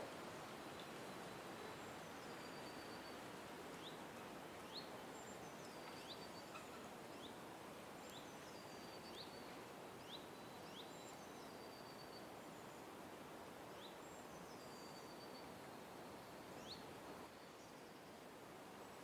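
Faint birdsong: small birds repeating short, high, thin whistled phrases and quick upward chirps every second or two, over a steady background hiss of distant noise.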